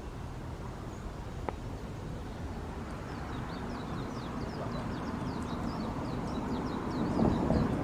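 Low rumble of ship engines, growing louder toward the end, with a quick run of short, high, falling chirps from a bird over it from about three seconds in. One sharp click about a second and a half in.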